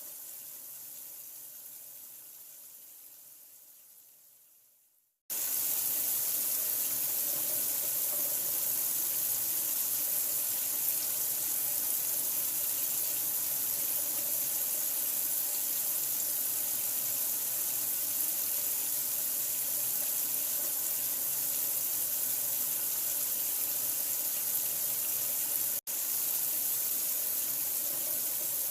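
Steady running water, an even full hiss. It fades out to silence over the first five seconds, then starts again suddenly, with a split-second gap about 26 seconds in.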